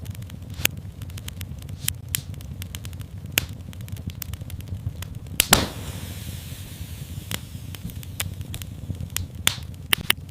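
Fire in a fireplace crackling, with a steady low rumble of flames under frequent sharp pops. A louder double pop comes about five and a half seconds in.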